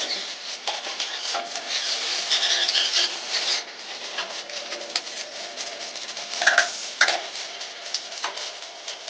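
Plastering tools at work on a scratch coat: steel trowel scraping and clinking as mortar is worked, busier for the first few seconds, with two sharper knocks later on.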